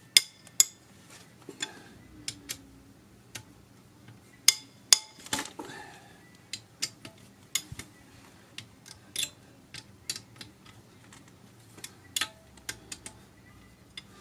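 Hand tools and loosened cylinder head bolts on a BMW M54 engine making scattered sharp metallic clicks and clinks, some ringing briefly, as the head bolts are worked loose.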